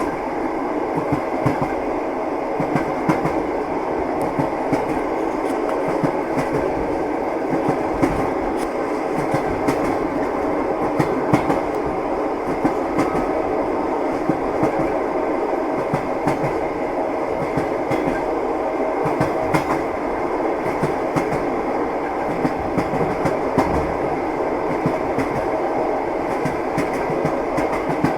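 Train wheels clattering over rail joints: steady rumble of a moving railway carriage with a continuous run of irregular clicks and knocks.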